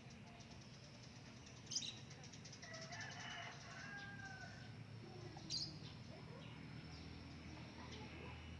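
Faint, sharp, high bird chirps, two of them about four seconds apart, the first followed by a quick rattling trill, over a low steady hum.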